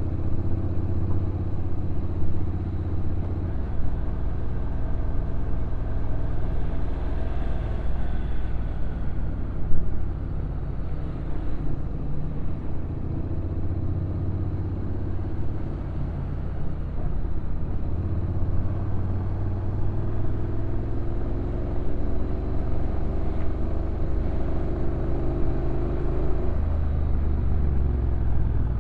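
Honda NC750X DCT motorcycle's parallel-twin engine running at low revs on a downhill ride, under wind and road noise. Its pitch climbs slowly through the second half, then drops back near the end. There is a single sharp knock about a third of the way in.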